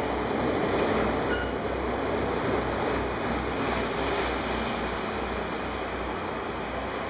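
Sleeper-train passenger coaches rolling past at low speed as the train departs, a steady rumble of wheels on the rails that eases slightly as the last coach goes by.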